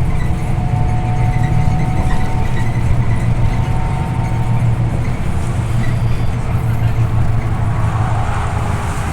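Scania OmniLink I city bus under way: a steady engine drone mixed with road noise, heard from inside the passenger cabin.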